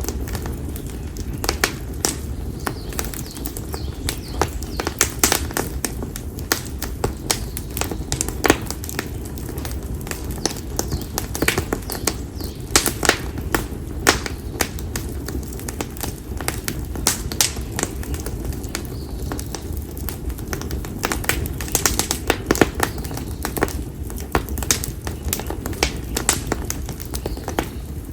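Split konara oak firewood burning in an open campfire, crackling with irregular sharp pops and snaps, several a second, over a steady low rush of the fire.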